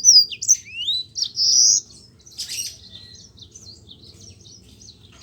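Yellow-fronted canary (Mozambique canary) singing: loud high whistled notes and rising slurs for the first two seconds, then a softer run of quick chirps.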